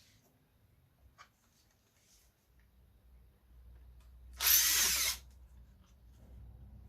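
A power drill-driver runs once in a short burst of under a second, about two-thirds of the way in, backing out a screw from the eMac's casing. A few faint clicks come before it.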